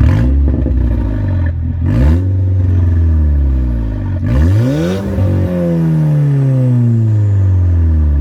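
2011 VW Golf mk6 GTI's turbocharged 2.0 TSI four-cylinder, tuned to Revo Stage 3 with a K04 turbo, revved through a 3-inch Milltek exhaust with its exhaust valve open in the loud setting. There are two short blips, one at the start and one about two seconds in. About four seconds in comes a higher rev, and the engine speed then falls slowly back towards idle.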